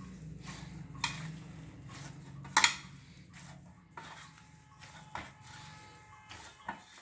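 Utensils clinking and knocking against a metal plate several times, the loudest knock about two and a half seconds in, over a faint low hum.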